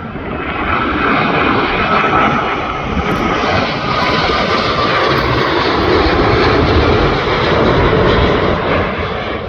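British Airways Boeing 787-8 landing, its Rolls-Royce Trent 1000 engines running at approach power: a loud jet rumble with a thin whine that swells about a second in, holds, and eases off near the end as the airliner passes.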